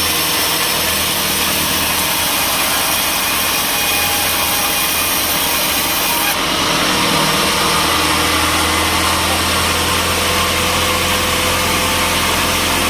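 Sawmill machinery running steadily, with a saw cutting through wood until about halfway, after which the cutting hiss stops and the engine runs on.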